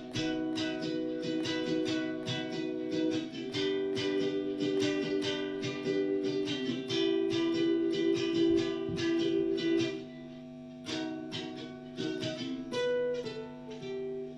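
Ukulele strummed in a quick, steady rhythm, then slowing to a few separate strums with pauses between them near the end, closing the song.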